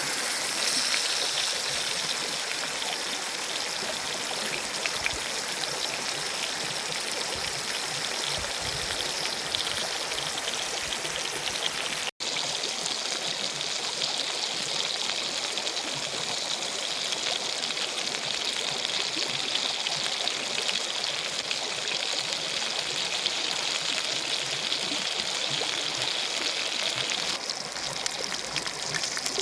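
Salmon steak frying in a pan: a steady sizzle, broken by a split-second gap about twelve seconds in.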